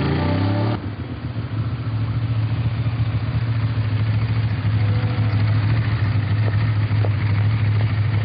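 Ducati 1098's V-twin engine running steadily at low revs, a deep constant drone. A snatch of music cuts off abruptly just before it.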